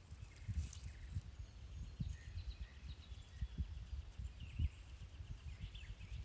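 Outdoor yard ambience: an uneven low rumble with irregular dull knocks, like wind buffeting the microphone, and birds chirping now and then in short, high calls.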